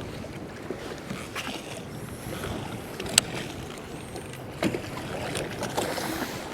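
Choppy sea water sloshing against a kayak's hull in wind, with a few sharp knocks, the loudest about three seconds in.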